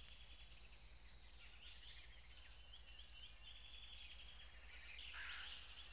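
Faint birdsong: small birds chirping and trilling in quick high notes, over a low steady hum.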